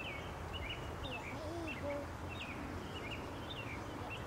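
Small birds chirping: a steady run of short, high, falling chirps, two or three a second, over a low steady background hum.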